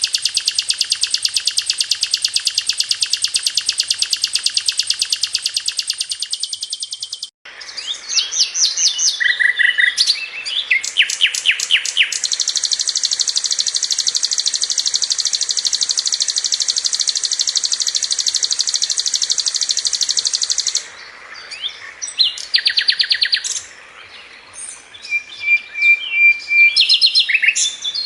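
Sikatan londo flycatcher singing in long, very fast rolling trills, each held steady at one pitch for several seconds. Short chirps and quick note runs come between the trills.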